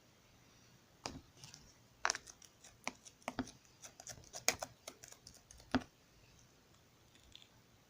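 Slime being squeezed and pressed by hand, making a quick, irregular run of sharp clicks and pops as trapped air bubbles burst. It starts about a second in and stops just before six seconds.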